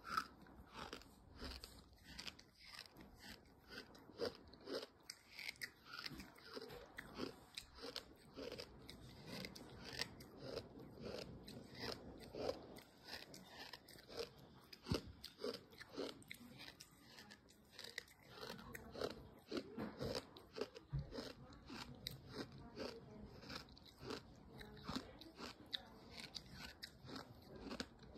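Close-up chewing of gritty sand in small bites: an irregular, continuous run of crunches and grinding grit, about two crunches a second.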